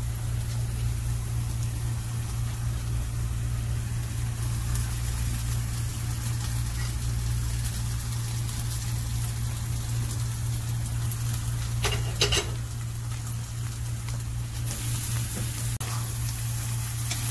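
Onion and spice masala sizzling in oil in a pan as mashed boiled potatoes are dropped in, over a steady low hum. A short clatter comes about twelve seconds in, and the sizzle grows brighter near the end as the mixture is stirred with a spatula.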